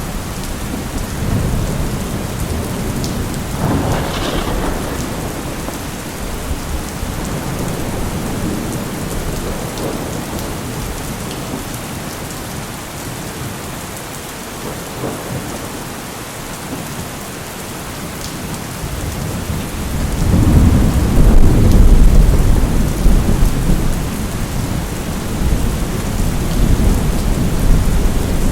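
Steady heavy rain with rolling thunder: a rumble swells about four seconds in and fades, then a louder, longer peal builds about two-thirds of the way through.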